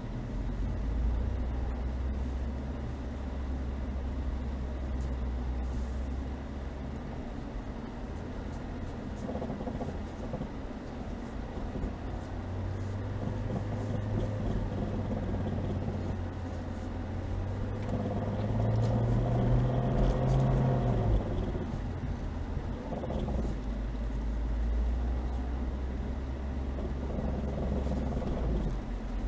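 Chevrolet Niva's engine pulling the car slowly through snow: a steady low drone that climbs in revs for several seconds about two-thirds of the way through, then drops back, with scattered light knocks and clicks.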